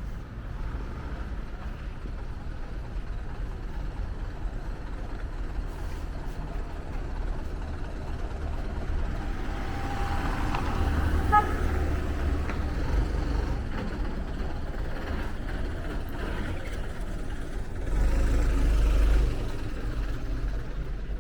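Road traffic: vehicles driving past with a steady low rumble, a short beep about eleven seconds in, and a louder rumble for about a second near the end as a vehicle passes close.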